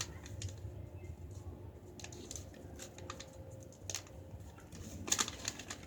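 Sheet of paper being folded and creased by hand: a few faint crinkles and taps, the clearest near the end.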